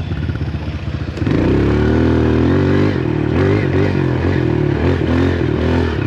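Dirt bike engine under way; about a second in the throttle opens and it gets louder and revs up, then the engine pitch rises and falls with the throttle.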